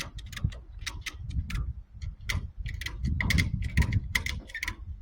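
Ratchet strap being tightened on a load: a run of irregular metallic clicks, several a second, over a low rumble.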